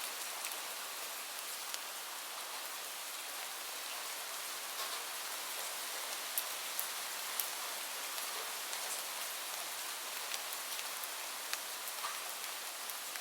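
Steady rain falling on a surface, a continuous hiss with scattered distinct drop hits throughout.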